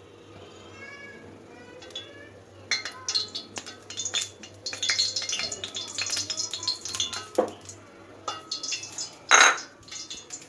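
Metal kitchen utensils clinking and clattering against pots and bowls in quick, irregular knocks with short ringing tones, with one louder clatter near the end.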